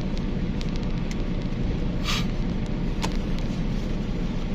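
Steady low engine rumble, with a short hiss about two seconds in and a faint click about a second later.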